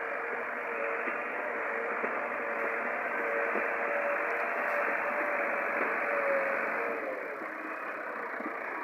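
Tractor engine running steadily: a dense, narrow noise with a faint steady hum in it, easing off slightly about seven seconds in.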